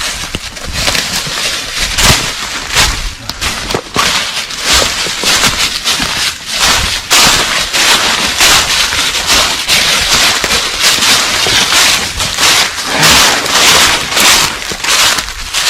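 Loud, continuous dry rustling and crunching with many irregular crackles: footsteps pushing through dry corn stalks and stubble.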